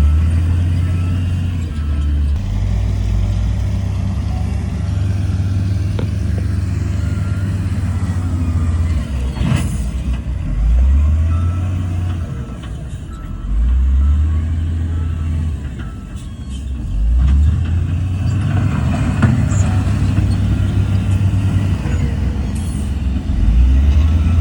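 Heavy diesel earthmoving machine's engine running under load, its pitch dropping and climbing again several times as it revs up, with a couple of sharp metallic knocks.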